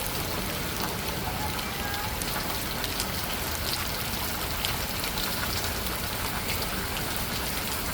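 Steady heavy rain pouring down, with many scattered drops ticking on hard surfaces.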